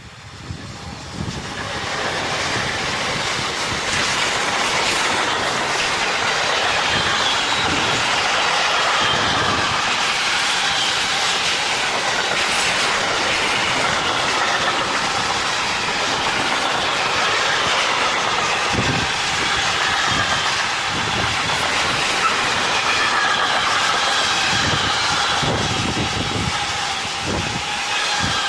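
Train passing close by, its wheels clattering over the rail joints with a faint metallic squeal. It builds up over the first couple of seconds, then stays loud and steady.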